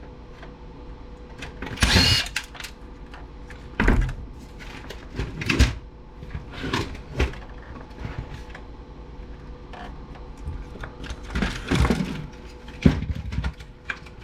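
Irregular knocks, clicks and scrapes of plastic and metal parts being handled and pried apart while an Aiwa stereo's CD player section is dismantled.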